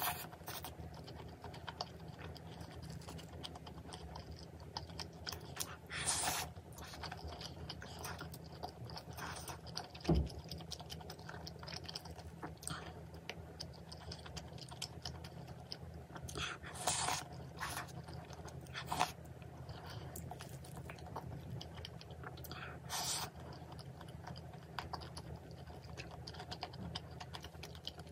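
Close-miked eating sounds: a person chewing and biting food with many small wet clicks, a few louder noisy bursts and a single low thump about ten seconds in, over a steady low hum.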